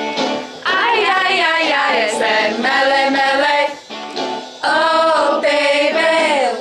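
Music with female voices singing, in phrases of a second or more with a short break in the middle.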